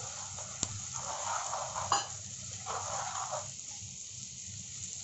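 Tomato puree sizzling in hot oil in a steel kadhai as a steel ladle stirs it through the fried onions, with two sharp clicks of the ladle against the pan. The stirring noise dies down after about three and a half seconds, leaving a quieter sizzle.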